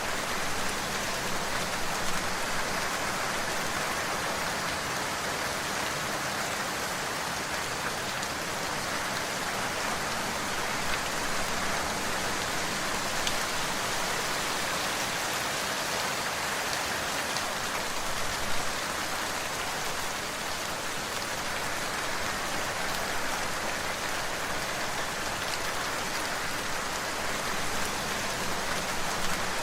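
Steady rain falling on a surface, an even hiss with a few slightly louder drop spatters now and then.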